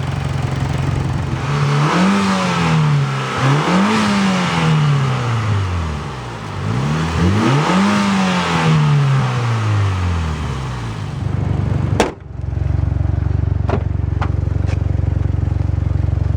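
Turbocharged 2-liter four-cylinder engine of a 2008 Mitsubishi Lancer Evolution GSR idling, then revved up and let fall back three times. About twelve seconds in there is a sharp knock, after which the engine idles steadily.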